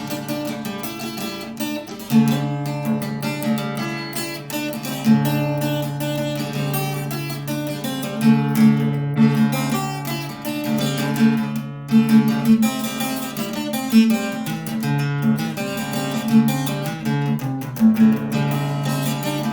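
Instrumental music led by a plucked, strummed acoustic guitar, with a bass line moving under quick repeated notes.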